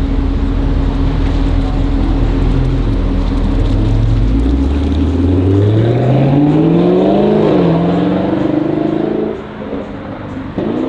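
A car engine running steadily, then accelerating hard: its note climbs for about four seconds, dips briefly as if on a gear change, climbs again and then drops away.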